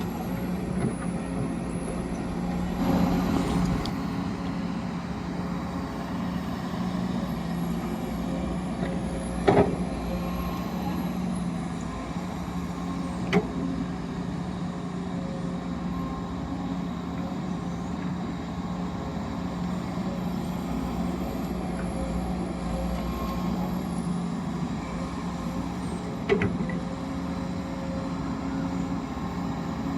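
Steady engine drone of a working excavator or hauler truck, with three sharp knocks of metal or rock, the first about nine and a half seconds in and the last near the end.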